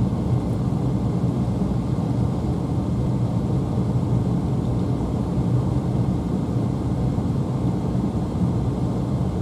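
A vehicle driving along a road, with steady engine and tyre rumble and no change in speed.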